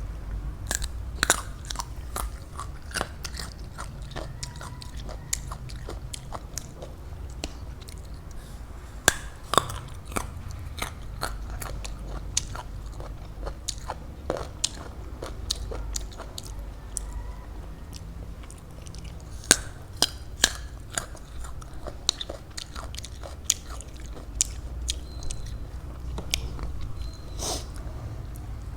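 Close-miked biting and chewing of raw fruit: irregular crisp crunches and wet mouth clicks, a few much louder bites among them, over a steady low hum.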